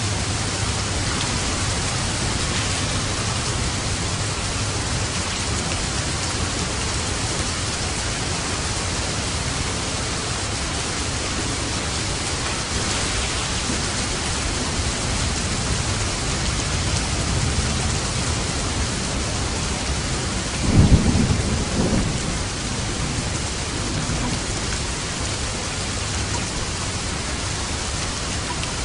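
Steady heavy rain falling, with a short low rumble of thunder about three-quarters of the way through.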